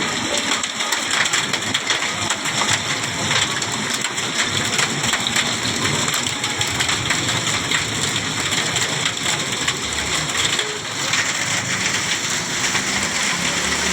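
Heavy rain falling steadily, a dense patter of many small impacts of drops on surfaces.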